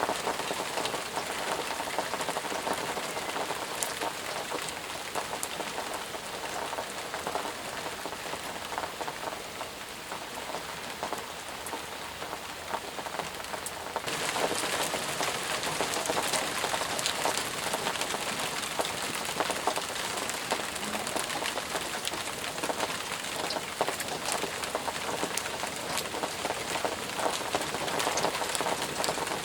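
Steady rain falling, with a dense hiss and many distinct drops pattering on surfaces. It eases a little in the middle, then turns heavier suddenly about halfway through.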